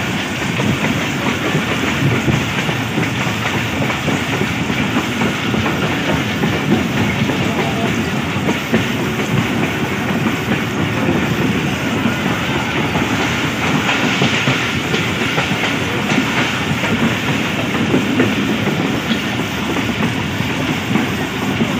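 Passenger train running at about 45 km/h, heard from aboard: a steady rumble of wheels on the track with a continuous clickety-clack of wheels over rail joints.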